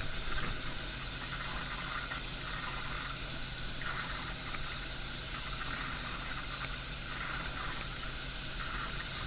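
Steady rushing water with a low engine hum underneath.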